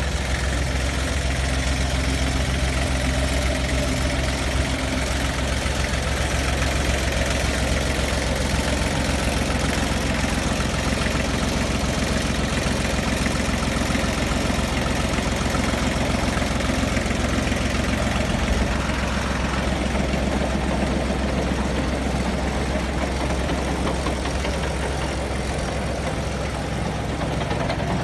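Yanmar F16D mini tractor's water-cooled three-cylinder diesel engine idling steadily.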